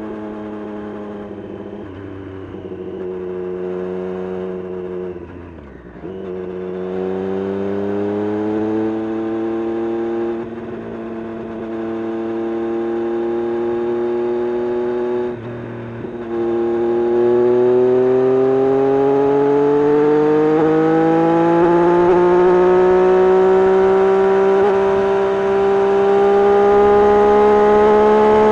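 Triumph Street Triple RS 765 cc inline-three engine through an SC-Project S1 exhaust, pulling under throttle with the pitch dropping briefly at several gear changes, then a long steady rise in revs that grows louder toward the end.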